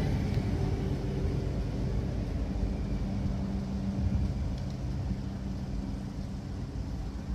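Low, steady rumble of a VIRMm double-deck electric train drawing away, slowly fading.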